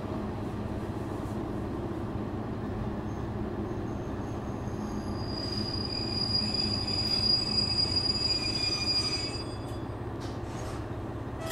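JR Shikoku 1000 series diesel railcar heard from inside the car, its engine and wheels giving a steady low rumble. From about five seconds in a high-pitched wheel squeal sets in for about four seconds, then the sound settles back to the quieter rumble with a couple of clicks.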